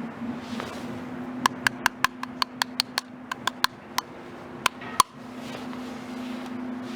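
A quick, irregular run of about fifteen sharp, ringing clicks over some three seconds, over a steady low hum that breaks off with the last, loudest click.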